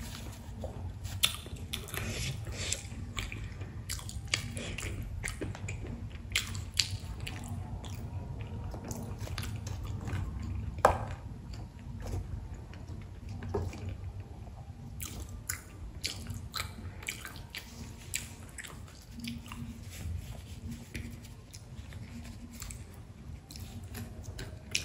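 Close-miked mouth sounds of someone eating spicy pani puri: chewing with scattered wet clicks and smacks, and one louder click about eleven seconds in.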